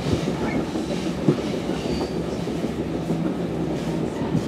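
Steady rumble of an NJ Transit Multilevel passenger coach running at speed, heard from inside the car: wheels on rail with a few short knocks, the loudest about a second in.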